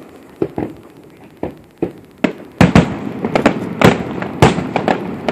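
Fireworks display: aerial shells bursting with sharp bangs, a few scattered ones at first, then a rapid run of loud bangs from about two and a half seconds in.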